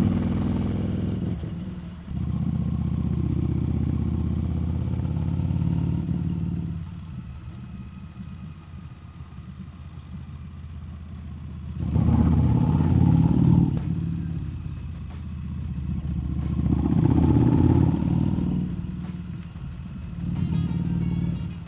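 Harley-Davidson Street Rod 750's V-twin engine running under way, heard from the rider. It pulls steadily for a few seconds, eases off for several seconds, then picks up twice more, around the middle and again a few seconds later.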